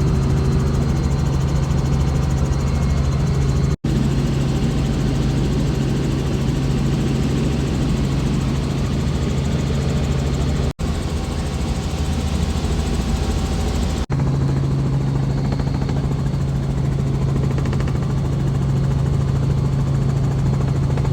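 Small helicopter's engine and rotor running, heard inside the cabin as a loud, steady drone with a constant low hum.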